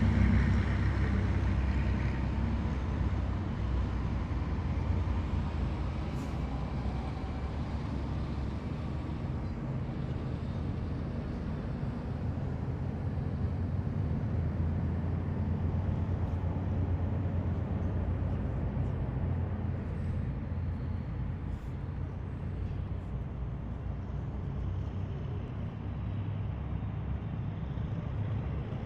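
Heavy military vehicles driving past in a column: a deep, steady engine rumble, loudest at the start and easing off over the first few seconds as they move away.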